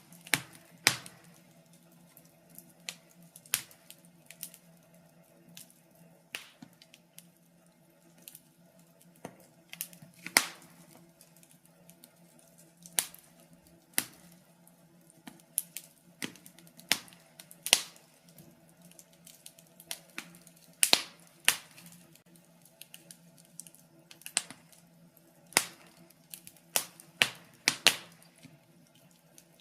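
Wood fire crackling: irregular sharp pops and snaps, at times several in quick succession, over a faint steady low hum.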